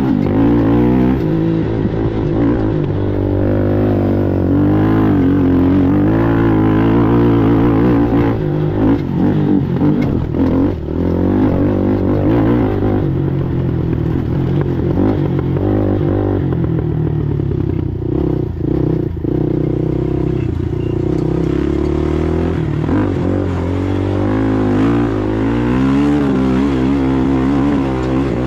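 ATV engine running hard under race load, its pitch rising and falling as the throttle comes on and off over rough ground. Rattles and knocks come through around a third of the way in and again past halfway.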